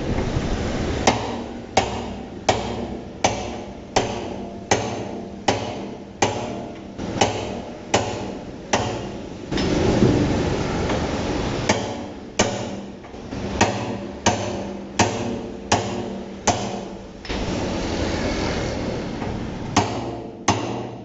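Hand hammer blows on a thick sheet-steel oil drum, sharp metallic strikes with a short ring, in a steady rhythm of about one and a half a second. The hammering breaks off twice, around the middle and near the end, for a few seconds of steady noise.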